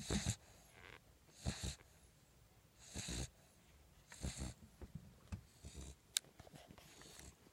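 Small dog snoring in its sleep: a noisy snore about every one to one and a half seconds. One sharp click comes about six seconds in.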